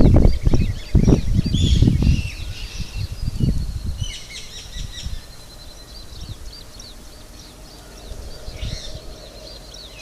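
Small birds chirping and trilling in the background. Heavy low thumps and rumbles fill the first three seconds, then die away.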